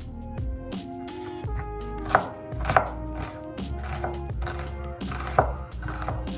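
Knife chopping food on a cutting board in irregular strokes, with a few louder knocks about two seconds in, just under three seconds in and near the end.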